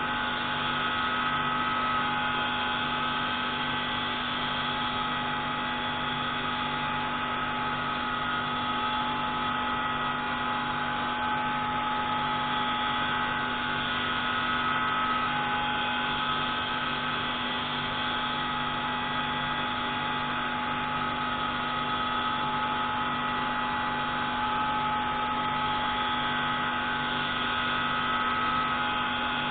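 Pneumatic grinding tool running steadily on the intake valve of a MAK 601C marine engine, a continuous hum with several held tones.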